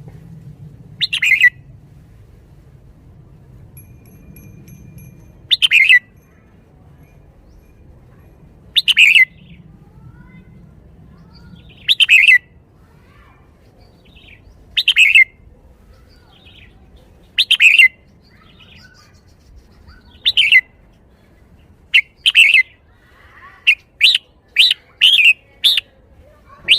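Red-whiskered bulbul singing: short, loud whistled phrases repeated about every three seconds, then a quick run of five or six short notes near the end. This is the song style that Thai keepers call 'bottle-shaking'.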